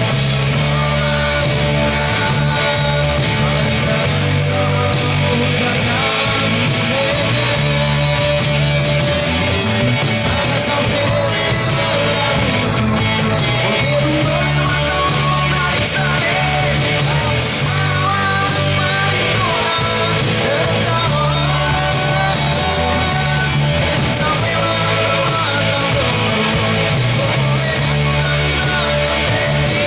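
Live band music: a rock-style song with a singer over a steady drum beat and amplified instruments.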